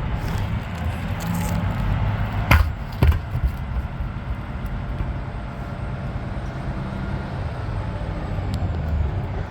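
A steady low engine rumble with two sharp strikes about half a second apart, typical of tools hitting the tire and rim while a truck tire is being taken off.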